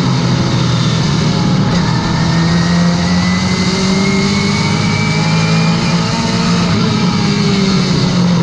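Late model race car's V8 engine running hard at speed on track, its note holding steady with small rises and dips as the throttle changes, and a faint rising whine in the middle.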